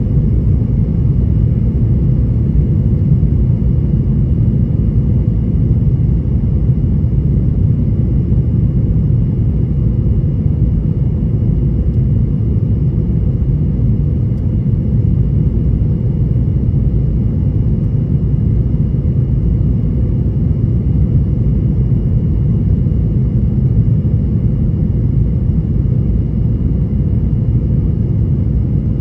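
Boeing 737-800 in flight, heard from inside the cabin: a steady rumble of its CFM56-7B jet engines and airflow, with a faint steady high whine above it.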